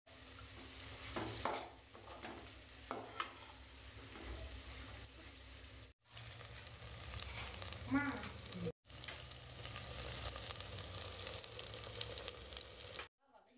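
A metal spatula stirring and scraping grated beetroot in an aluminium kadai, with light clicks against the pan. Then crushed turkey berries (sundakkai) sizzling as they fry in sesame oil in a clay pot, stirred with a wooden spatula.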